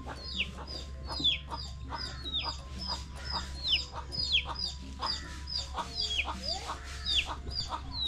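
Birds calling: one repeats a high, falling whistle about once a second, while chickens cluck underneath.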